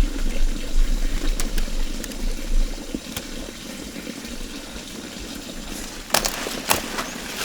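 Water running or splashing, with a few sharp knocks about six seconds in.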